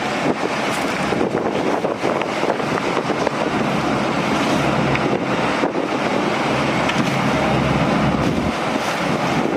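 Strong, gusty wind buffeting the microphone, a steady loud rush with a deeper rumble swelling for several seconds in the middle.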